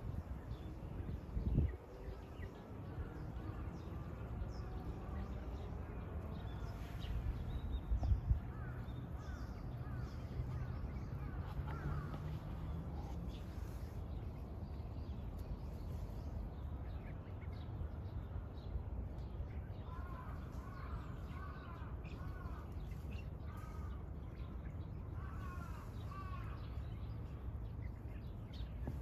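A bird calling in short runs of repeated notes, several times, most clearly about two-thirds of the way through and again near the end, over a steady low rumble with a couple of brief thumps in the first several seconds.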